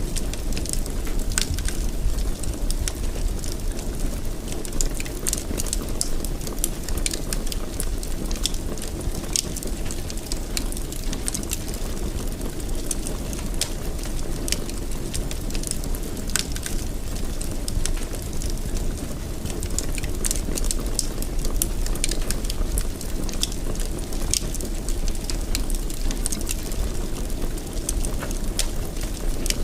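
A fire in a fireplace crackling: many small irregular pops and snaps over a steady low rush of burning.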